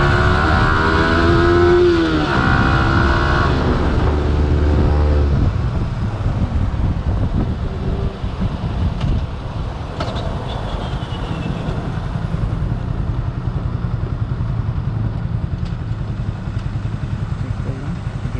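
Yamaha R15 V3's 155 cc single-cylinder engine revving up under acceleration, its pitch dropping briefly about two seconds in. About five seconds in the throttle closes and the engine falls to a low, even pulse under wind rush as the bike slows to a stop and idles in neutral.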